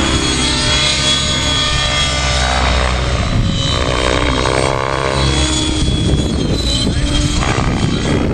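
Radio-controlled model helicopter in flight, its motor and rotor whine rising and falling in pitch as it manoeuvres.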